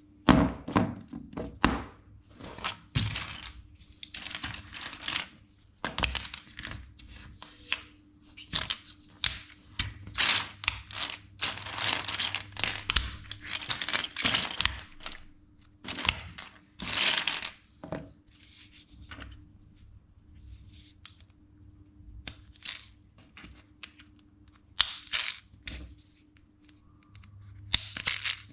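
Plastic LEGO bricks clicking, rattling and being pressed together by hand, in short irregular clusters of clicks and rustles.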